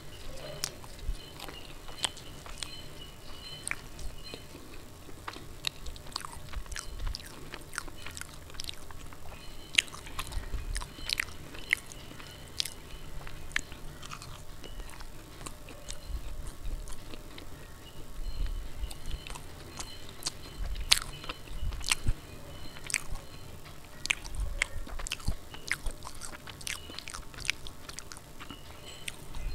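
Close-miked chewing and biting of soft puri dipped in spicy potato curry (dum aloo): many wet mouth clicks and smacks at an irregular pace, with soft low thumps.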